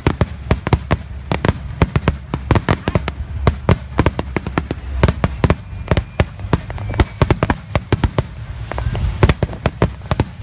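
Fireworks display: a rapid, irregular run of sharp bangs and crackles, several a second, over a low rumble.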